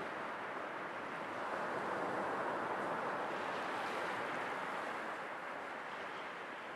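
Sea waves washing in a steady rush of surf, swelling a little about two seconds in and easing off toward the end.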